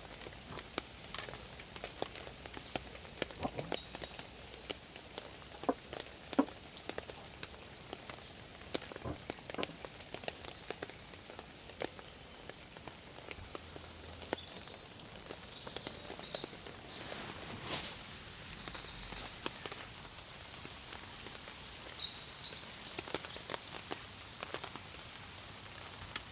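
Rain falling, heard as irregular individual drops ticking on a surface over a faint steady hiss.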